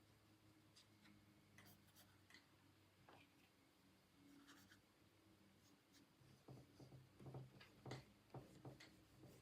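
Faint strokes of a drawing or painting tool on paper, sparse at first and coming more often and a little louder from about two-thirds of the way in.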